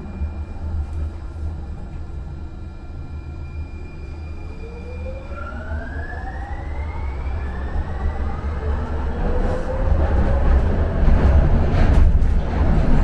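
Ride noise from a Muni Metro light-rail car in motion: a steady low rumble with the electric traction motors whining. The whine sinks slightly at first, then from about halfway rises steadily in pitch as the train accelerates, and the running noise grows louder toward the end.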